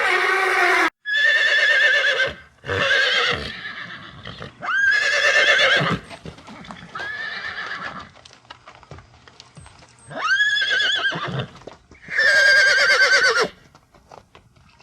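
Horses neighing, about seven whinnies in a row, each about a second long with a shaky, wavering pitch. Short knocks in the pauses between calls sound like hooves.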